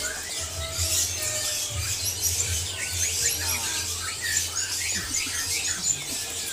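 Many small caged songbirds chirping and twittering all at once: a dense chorus of short, high calls, with a low uneven rumble underneath.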